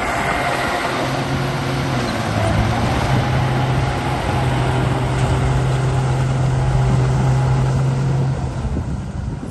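Radio-controlled bulldozer's electric drive running with a steady low hum that steps up in pitch a couple of times, then drops away near the end.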